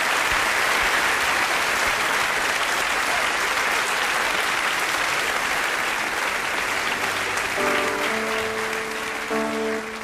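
Audience applauding with steady clapping. Near the end an instrument starts playing the opening notes of a song as the applause thins out.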